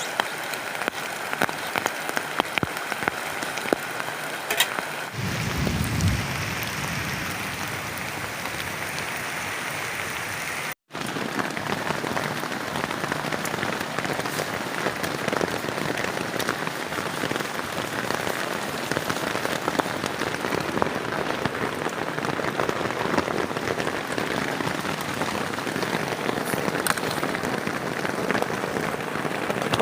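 Heavy rain falling steadily, with sharp drops ticking on a plastic tarp shelter. A brief low rumble comes about five seconds in; the sound cuts out for an instant before halfway and returns heavier.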